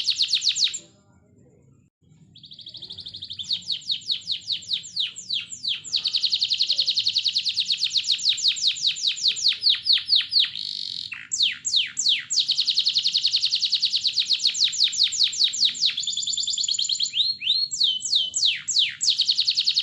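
Domestic canary singing a long song of fast, repeated trills of chirping notes, pausing briefly about a second in and shifting between trill patterns as it goes.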